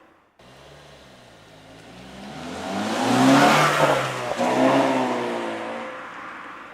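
Honda Fit RS (GK5) 1.5-litre four-cylinder running through a COLBASSO Ti-C aftermarket exhaust, accelerating past. The engine and exhaust note swells to a loud peak three to four seconds in, dips briefly just after, then fades away.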